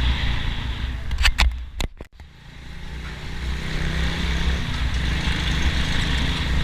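Motorstar Nicess 110 underbone motorcycle running on the road, its engine rumble mixed with wind noise. A few sharp clicks come about a second in, and the sound briefly drops out around two seconds in before building back.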